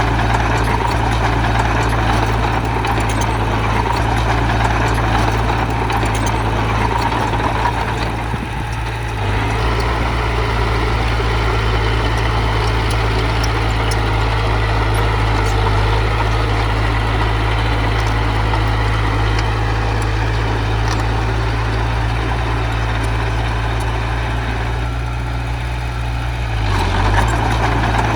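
Heavy diesel engine of earthmoving machinery running steadily, with a short dip in level about eight seconds in.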